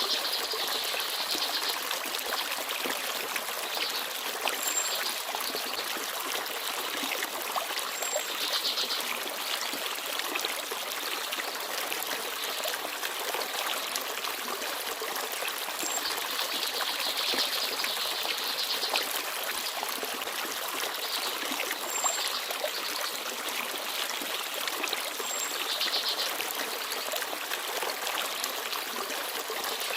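Forest stream babbling and trickling steadily, swelling and easing now and then. A few short, faint, high chirps of small birds come and go over it.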